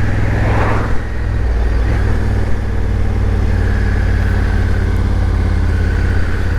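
Motorcycle engine running steadily at low revs as the bike rolls slowly through city streets.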